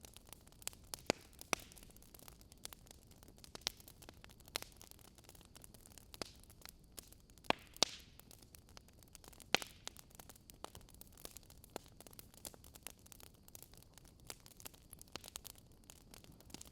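Campfire crackling: burning wood giving off irregular sharp pops and snaps, a few noticeably louder than the rest, over a faint steady hiss.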